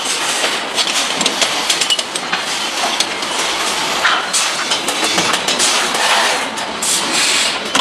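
Motorcycle factory floor noise: a steady hiss of machinery with many small clicks and clanks of parts and tools throughout.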